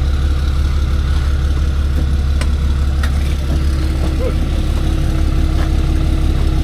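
A vehicle engine idling steadily with a deep, even drone, with a couple of faint clicks in the middle.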